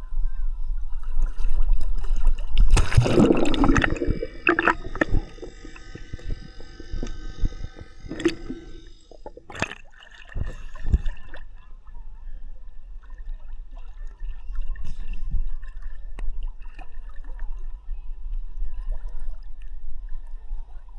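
Sea water sloshing and gurgling around a swimmer's camera held at the surface, with a loud splash about three seconds in and a low rumble of water against the microphone throughout.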